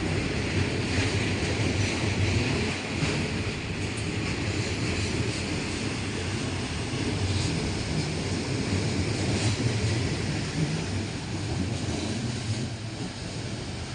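Steady low rumble of a train running along the track, with wind noise on the microphone.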